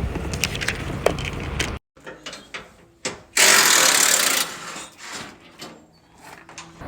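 Rapid mechanical clicking, like a ratchet or other hand tool being worked, broken by abrupt cuts, with a loud hissing rush lasting about a second near the middle.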